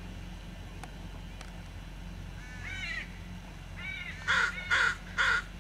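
Crows cawing. A run of thinner calls starts about halfway through, and near the end come three loud, harsh caws about half a second apart.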